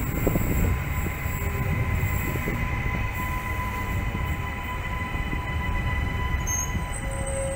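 Queensland Rail electric suburban train running on the curved approach to the station: a steady low rumble of wheels on rail, with a thin steady high whine or squeal over it.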